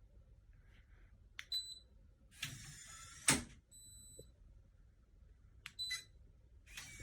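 Clicks, each followed by a short high electronic beep, three beeps in all; the middle beep is longest. A brief rustle of handling ends in a loud click before it.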